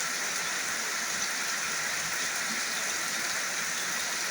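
Heavy rain falling steadily, coming down hard again after a lull.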